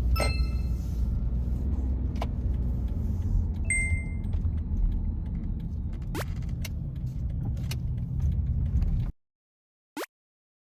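Steady low road rumble of a car heard from inside the cabin while driving, with light clicks and rattles and two brief ringing chime-like tones, one at the start and one about four seconds in. The sound cuts off abruptly about nine seconds in.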